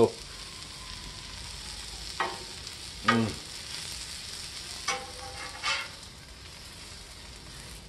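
Corn-tortilla taco frying in oil on a flat-top griddle, sizzling steadily, with a few brief sounds over the sizzle.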